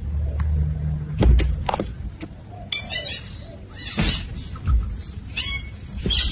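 Pet parrot giving several short, high-pitched squawks and chirps in bursts, starting a little under three seconds in. Before that there is a low steady hum and a couple of sharp clicks.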